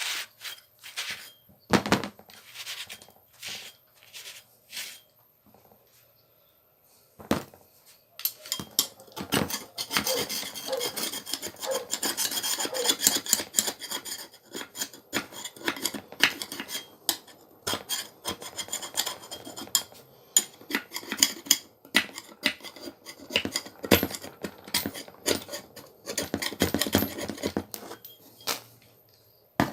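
Rubbing and scraping while cleaning dirt out of a Makita angle grinder's parts, with scattered knocks and clicks. A few sparse knocks come first, then a short quiet spell, and from about eight seconds in a steady run of scrubbing broken by sharp clicks.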